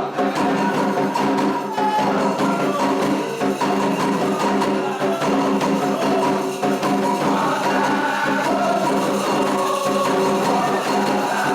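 Candomblé ritual song: voices chanting together over steady struck percussion.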